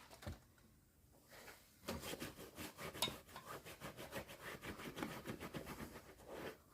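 Rapid, irregular rubbing and scraping on a rubber inner tube, starting about two seconds in, as the area round the puncture is worked over and the tube is pressed flat.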